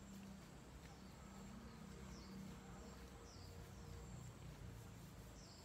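Faint outdoor garden ambience: a bird gives three short, falling chirps over a low, steady rumble.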